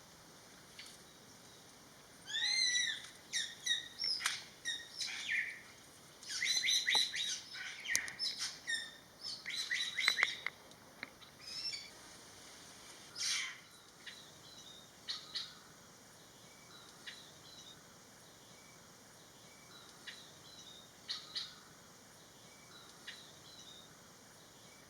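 Greater racket-tailed drongo calling: a loud, busy run of varied whistled notes, some sliding up or down in pitch, for about nine seconds, then a few scattered, quieter calls.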